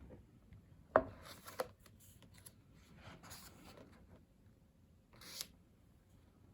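A photobook's pages being handled and turned: a sharp tap about a second in, paper rustling, and a short swish of a page near the end.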